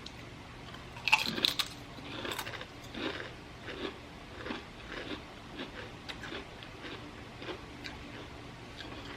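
Brets potato chips being bitten and chewed: a loud crunching bite about a second in, then steady crunching chews, a little more than one a second, that grow fainter near the end.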